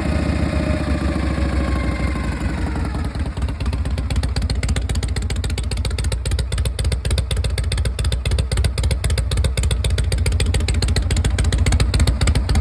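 Harley-Davidson Shovelhead V-twin engine running: its revs fall back over the first three seconds, then it settles into a steady, evenly pulsing idle.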